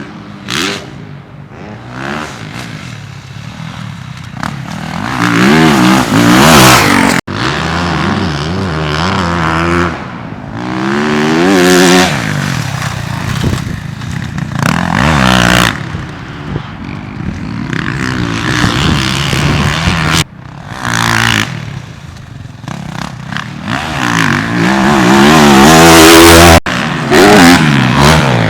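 A 2023 Yamaha YZ450F's single-cylinder four-stroke engine ridden hard off-road, revving up and falling back again and again as the throttle is worked and gears are changed. The sound jumps abruptly three times where separate riding clips are joined.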